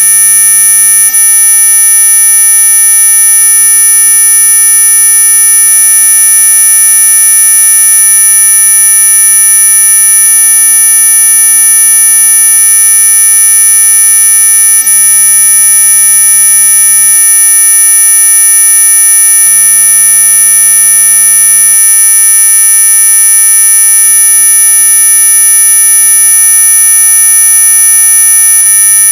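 A synthesized 'anti-mosquito' repellent tone: a loud, unchanging electronic buzz made of several steady pitches sounding together, the strongest of them very high and shrill.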